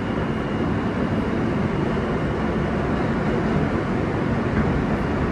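Inside a moving New York City subway car: the steady rumble of the train running along the track, with a faint steady high whine.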